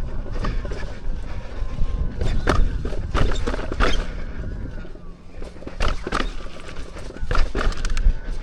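Electric unicycle riding down a rocky dirt trail: wind on the microphone and a low rumble, with sharp knocks and clatters as the tyre strikes rocks, and a faint wavering whine.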